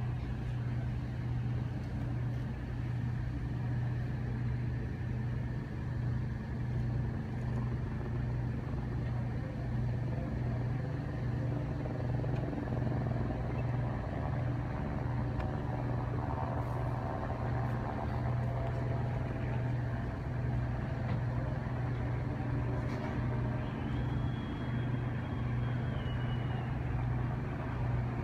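Steady low engine drone that pulses slightly, with a faint thin high tone near the end.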